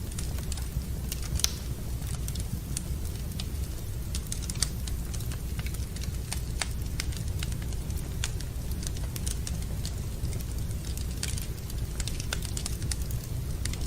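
Wood fire burning in a fireplace, crackling with irregular sharp pops and snaps over a steady low rumble, with one louder pop about four and a half seconds in.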